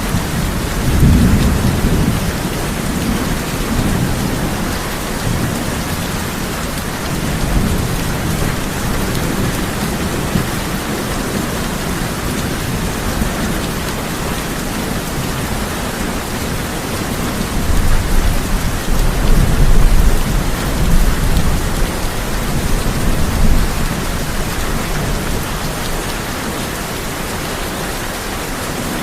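Steady heavy rain falling on a tin roof, with rolling thunder: a rumble about a second in and a longer, louder roll past the middle.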